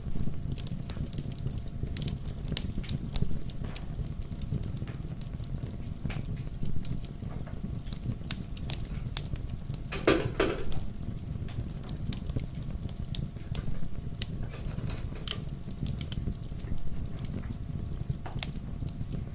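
Fireplace crackling: a wood fire with a steady low rumble and scattered sharp pops and crackles, one louder and longer about halfway through.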